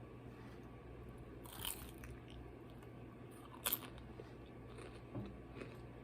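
Close-up eating sounds: two crisp crunching bites, one about one and a half seconds in and a sharper one near four seconds, with softer chewing clicks between.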